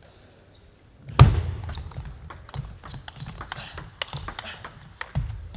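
Crowd in a large hall breaking into clapping and banging cheer sticks, setting off suddenly about a second in with a loud crack, then a dense, irregular patter of sharp claps and low thuds.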